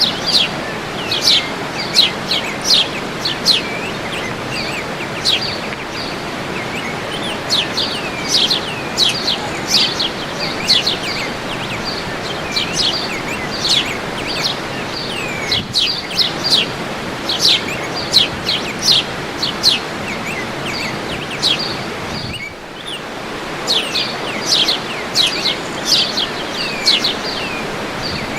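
Birds calling with many short, sharply falling chirps, repeated throughout, over the steady rush of a waterfall.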